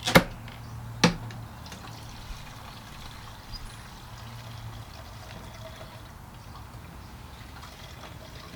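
A small amount of gasoline poured from a can into the fuel tank of a Honda pressure-washer engine, a faint steady trickle. Two sharp clicks come in the first second, the loudest sounds.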